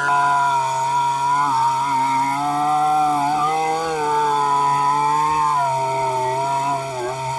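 Cheap Chinese-made two-stroke gas chainsaw running at high revs while cutting green oak, its engine pitch wavering and sagging under load, with a deeper dip near the end.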